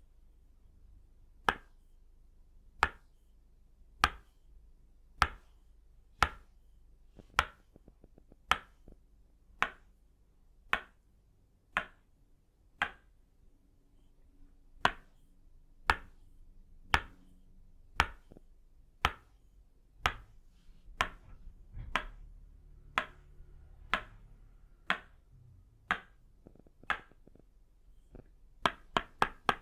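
Tok sen massage tools made of itauba wood: a wooden mallet striking a wooden peg, giving sharp, slightly ringing wood-on-wood knocks at an even pace of about one a second. Near the end the strikes speed up into a quick flurry of about five a second.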